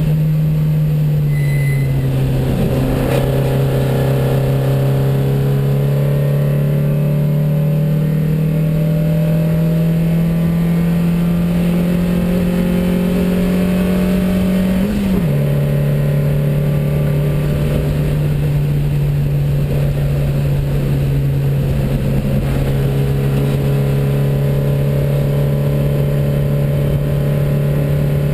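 Porsche 914 racing car's 2270 cc flat-four engine heard from inside the cockpit, pulling under load. The engine note drops about a second in and again sharply about halfway, each time an upshift, and climbs slowly in between.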